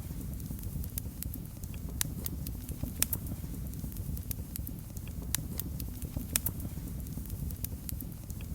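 Wood fire crackling in a fireplace: a steady low rumble of flames with irregular sharp pops and snaps, several a second, a few of them louder.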